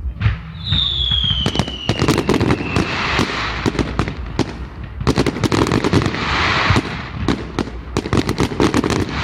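Fireworks going off: a whistle that falls slowly in pitch over about two seconds, then a rapid, dense barrage of bangs and crackling that keeps up to the end.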